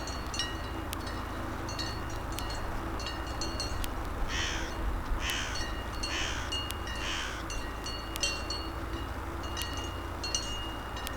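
A bird giving four harsh caws, about a second apart, each falling slightly in pitch. Behind them run short high chirps and clicks and a low steady rumble.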